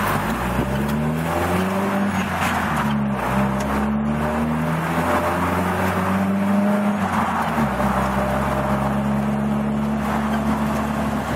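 1990 Jeep Wrangler YJ's 2.5-litre four-cylinder engine running under way, its pitch rising and falling several times with the throttle, then holding steady for the last few seconds.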